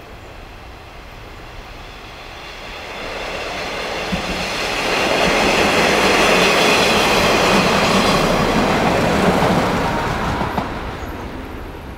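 A train passing close by: its running noise swells from about three seconds in, is loudest through the middle with a faint high ringing from the wheels and rails, and fades away near the end.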